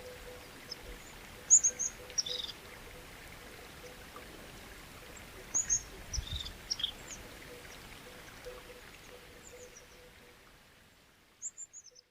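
Birds chirping in short, high, falling runs of notes every few seconds over a faint, steady hiss of flowing water. The water fades out near the end.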